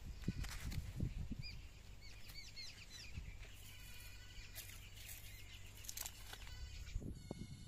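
Birds chirping in the background, with short rising-and-falling chirps and a couple of pitched calls, over faint outdoor ambience. A few soft low knocks come in the first second and a half.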